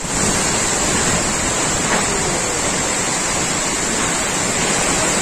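Heavy storm downpour with hail: a loud, steady, dense rush of falling rain and ice.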